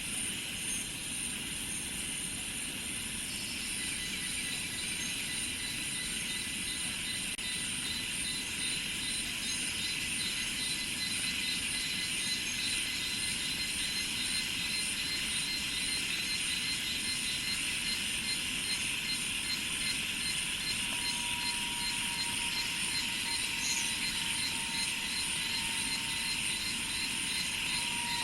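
Steady chorus of cicadas and other insects in rice fields: a dense shrill hum with rapid pulsing trills high up and a few sustained buzzing tones, one more tone joining about three quarters of the way through.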